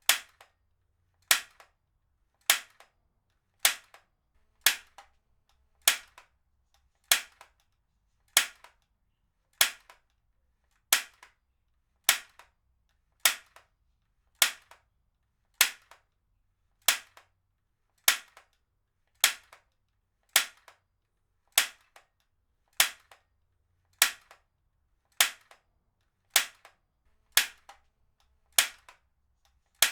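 Heavy-duty stapler firing again and again, a sharp snap about every 1.2 seconds, each followed by a faint second click.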